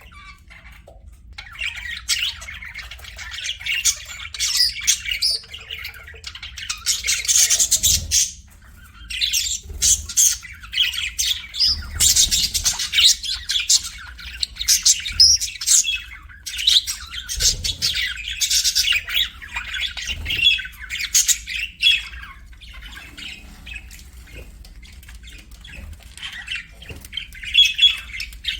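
Pet budgerigars chattering and chirping, fast warbling runs of high squeaky notes, several birds overlapping. The chatter thins to scattered chirps for the last several seconds.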